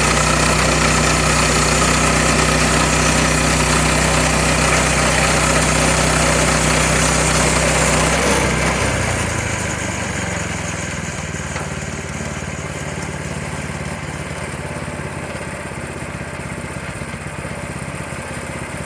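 An engine running loud and steady, then dropping to a quieter, lower-speed run about eight seconds in, with the high hiss fading out.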